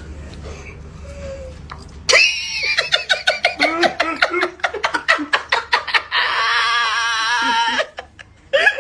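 A person bursts into loud, rapid laughter about two seconds in, a fast run of ha-ha pulses, which ends in a long, high, wavering squeal lasting nearly two seconds. Before the outburst there is only a low steady background hum.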